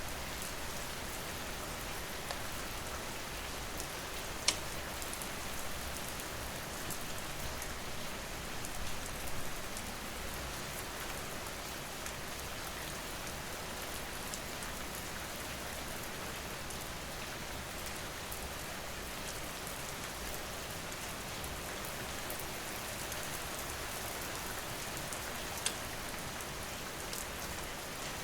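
Steady rain falling on surfaces, an even hiss of dense drops, with two sharp pops of crackling fire, one about four seconds in and one near the end.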